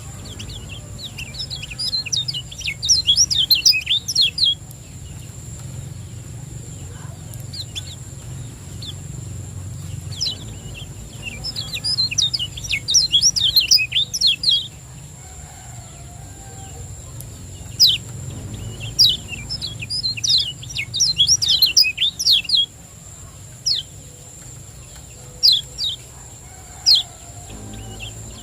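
Kecial kuning, a small white-eye, calling in rapid bouts of high, sharp, falling chirps: three long bouts, then a few single chirps near the end. These are the 'ciak ciak jos' calls. A steady low hum runs underneath.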